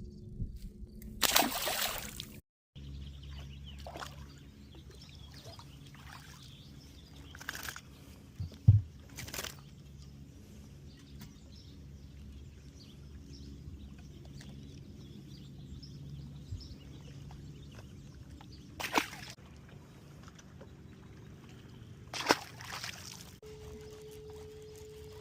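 Water slopping and splashing against a fishing boat over a steady low hum. There are a few short splashes and one sharp knock about nine seconds in.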